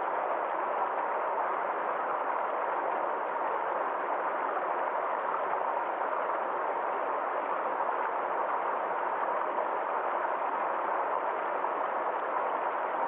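Small forest stream flowing steadily: an even, unbroken rush of water.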